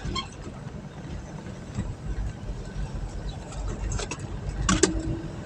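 A car running, a steady low rumble of engine and road noise, with a sharp click shortly before the end.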